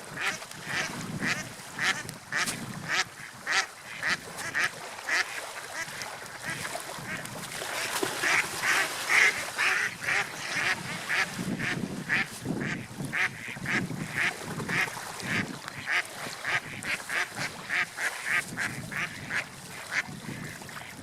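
Birds calling: a long series of short, repeated calls, about two a second, louder around the middle.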